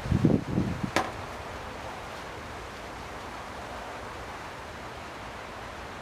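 Hand work on a small outboard motor: a few low knocks and a sharp click about a second in as a stuck part is worked, then steady background hiss.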